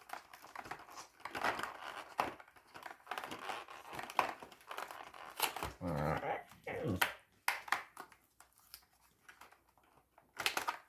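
Cardboard advent calendar door being torn open and a dog treat pulled out of its plastic tray, with irregular crinkling and tearing.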